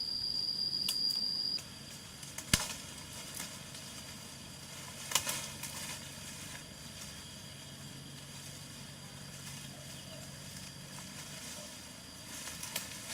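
An insect's steady high-pitched trill cuts off about a second and a half in. It is followed by a few sharp clicks or knocks, the loudest two about a second and three seconds in, over faint outdoor background noise.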